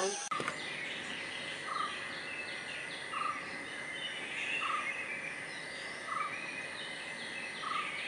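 Birds chirping outdoors, with one short note repeated evenly about every second and a half, over a steady high buzz.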